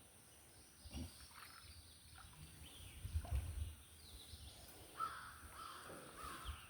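Faint outdoor ambience with a bird calling several times about five seconds in, and a few dull low thumps earlier on.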